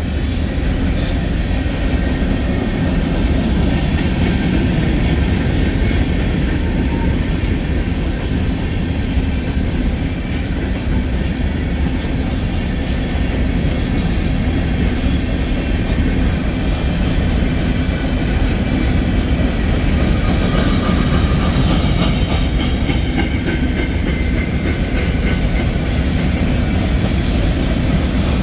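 Freight cars of a Union Pacific train rolling past at close range: covered hopper cars and then tank cars. Their wheels make a steady rumble on the rails, with scattered clicks.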